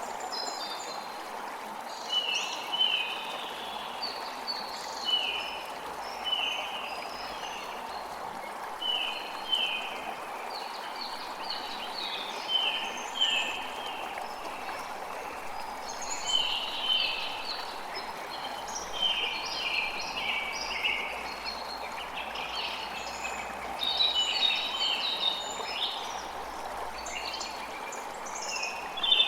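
Creek water running steadily, with forest birds calling over it in quick series of short, high chirps that come and go throughout.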